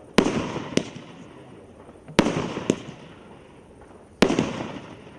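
Firework bangs: five sharp reports, mostly in pairs about half a second apart and repeating roughly every two seconds, each trailing off in a long echo.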